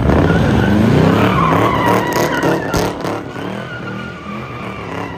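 Car engine revving up again and again while its tyres squeal against the pavement.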